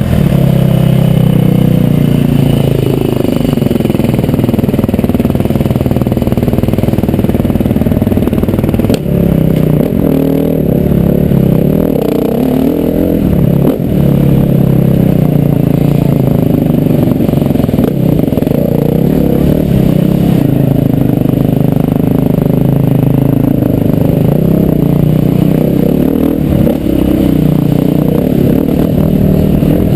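Motocross bike engine running hard at speed, its pitch rising and falling as the throttle opens and closes, with brief drops in level a few times.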